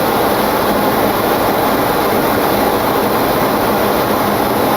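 Steady rush of flight-deck noise in a Boeing 727-200 in flight: airflow around the cockpit at about 220 knots, mixed with engine noise and a faint steady hum.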